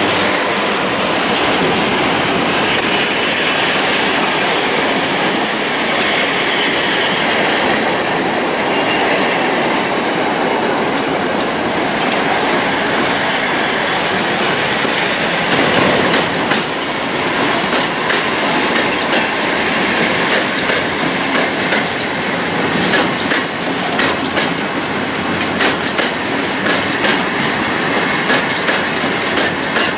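A train rolling past at close range: a steady rumble of wheels on rails, with a rapid clickety-clack of wheels over rail joints that grows denser from about halfway.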